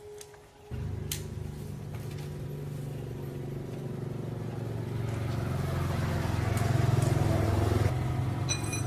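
110cc motorbike's single-cylinder engine catching suddenly about a second in and running. It gets louder and revs up over the next several seconds, then eases back near the end.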